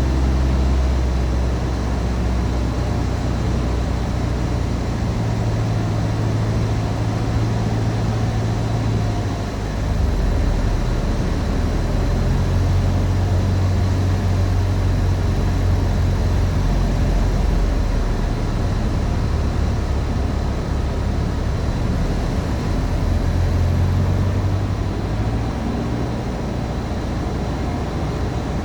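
Cessna 150's Continental O-200 four-cylinder engine and propeller droning steadily in the cabin on final approach. The engine note dips briefly about nine seconds in, picks up again, and drops a little near the end.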